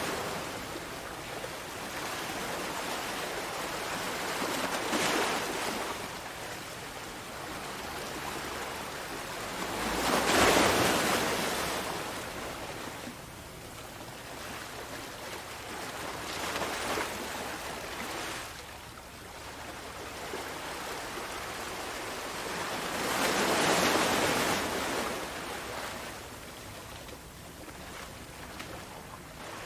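Sea waves breaking in a steady wash of surf that swells and fades every five to seven seconds. The largest breaks come about ten seconds in and again near the end.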